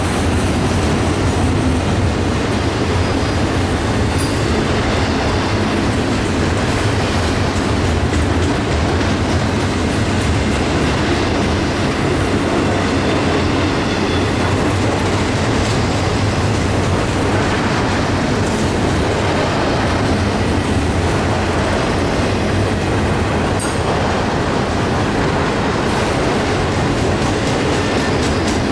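A Union Pacific freight train rolling past close by. Its wheels make a loud, steady rumble and clickety-clack on the rails.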